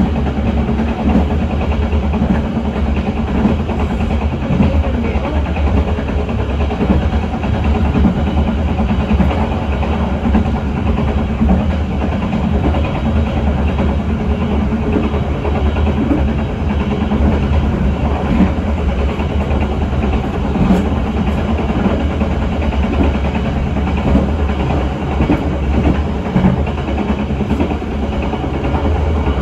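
Passenger train on the move: a steady, loud rumble and rolling noise of the carriage's wheels running on the rails.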